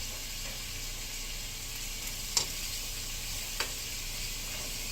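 Food frying in a pan, a steady sizzle, with two sharp clicks about two and a half and three and a half seconds in.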